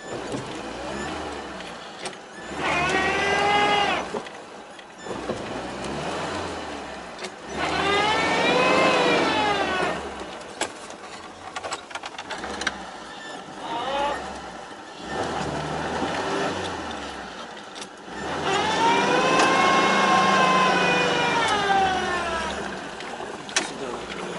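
Lada Niva four-wheel-drive revving repeatedly as it works along deep ruts off-road. Each surge is a rising-then-falling whine lasting a few seconds, about four times, over a steady low running sound with occasional knocks.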